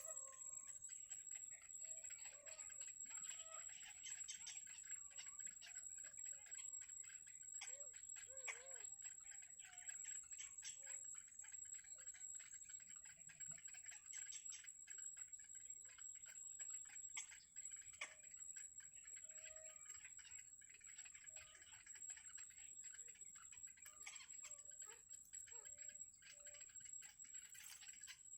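Faint outdoor ambience: a steady high-pitched whine under a scatter of small ticks, with a few brief short chirps now and then.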